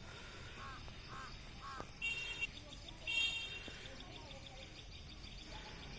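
Faint bird calls: three short calls in the first two seconds, then two longer, higher calls about two and three seconds in.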